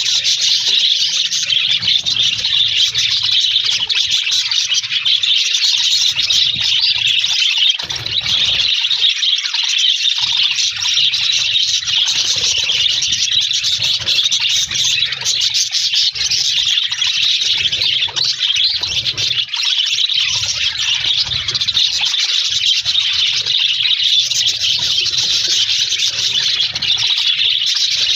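A flock of budgerigars chattering and warbling continuously, many birds at once, with a low hum coming and going underneath.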